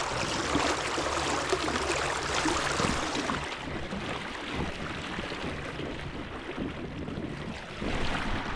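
Rushing river water with wind noise on the microphone. The hiss eases after about three seconds.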